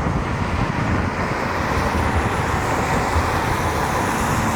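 Distant jet airliner on its takeoff run, a steady engine roar with the higher hiss building slightly toward the end.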